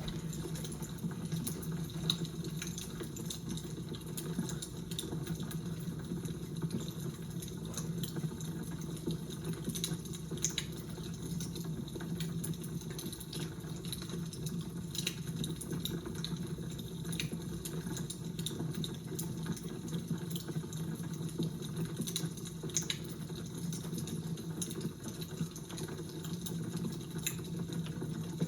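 Fire crackling: irregular sharp pops and snaps over a steady low hum.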